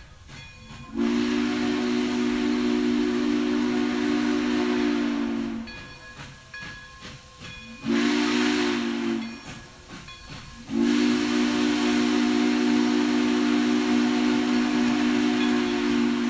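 Steam locomotive chime whistle blowing a chord of several steady notes with a hiss of steam: a long blast, a short one, then another long one.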